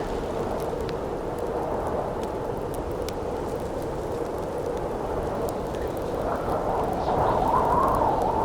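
Campfire crackling with scattered sharp pops over a steady rush of howling wind; the wind swells and wavers louder over the last couple of seconds.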